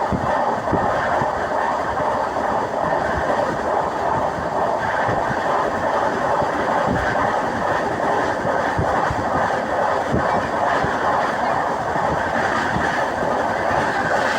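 Steady rumble and rush of a moving passenger train heard from inside the carriage, with irregular low knocks of the wheels running over the rail joints.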